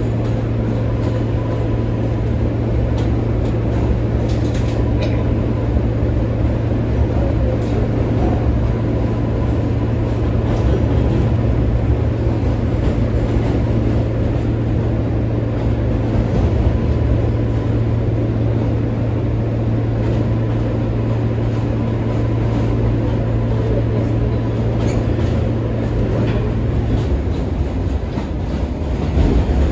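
R143 subway train running along the track: steady rumble of wheels on rail with a low motor hum that drops away near the end.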